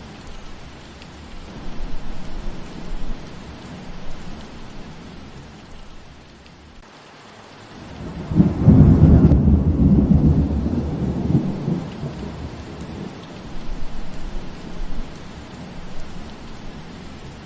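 Steady rain falling through forest trees. About halfway through, a deep roll of thunder swells for a few seconds and fades away.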